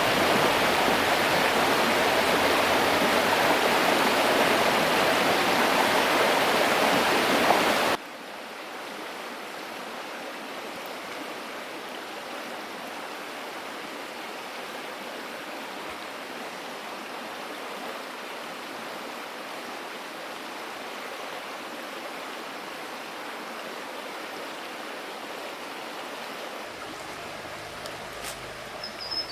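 Rushing river water, a steady loud rush that cuts abruptly to a much quieter, fainter rush about eight seconds in.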